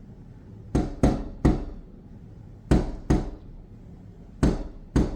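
A crane pecking its beak hard against window glass: sharp knocks in quick clusters, three together about a second in, then two, then two more near the end, each with a short ring.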